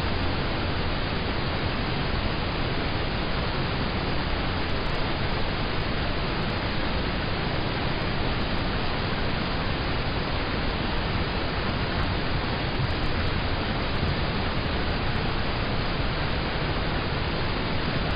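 Steady rain falling on a car, heard from inside the cabin: an even hiss with no separate drops or breaks.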